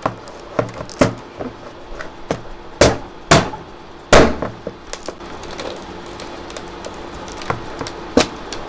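Irregular sharp knocks and cracks of hard plastic, the sound of empty engine-oil bottles being struck and crushed so they can't be reused. The loudest blow, with a short ring after it, comes about four seconds in.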